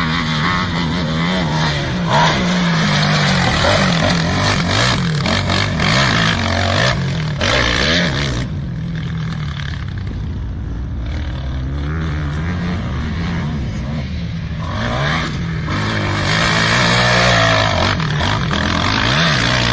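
Kawasaki KFX 450R quad's single-cylinder four-stroke engine revving up and down as it is ridden hard, its pitch rising and falling with the throttle. It eases off in the middle and builds up again near the end.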